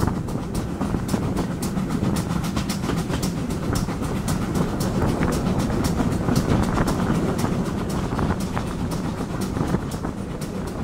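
Steam-hauled train running, heard from a carriage: a steady rumble of wheels on the track with a rapid run of sharp beats, about four a second.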